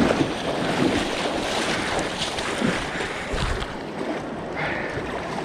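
Rushing river water, with wind buffeting the microphone in uneven low gusts.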